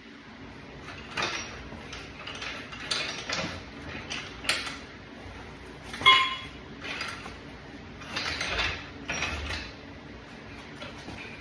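Honda CB750K engine being slid out of the motorcycle frame on a support frame: irregular metal scrapes and clanks, the loudest a ringing metal clank about six seconds in.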